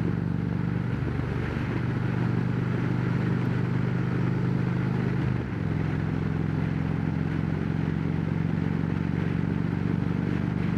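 Harley-Davidson Road Glide Special's V-twin engine running steadily at cruising speed through Rinehart Slimline True Duals exhaust, under a steady hiss of wind noise. The engine note dips briefly about five and a half seconds in, then carries on at much the same pitch.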